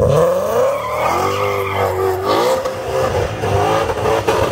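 Ford Mustang GT350R's V8 revving hard, its pitch climbing steeply in the first half-second and then held high and wavering.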